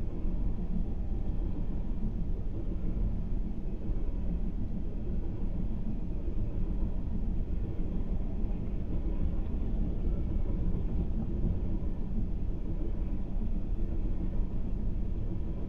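Freight train of coal gondola cars rolling steadily past a grade crossing: a continuous low rumble of wheels on the rails, muffled inside a car's cabin.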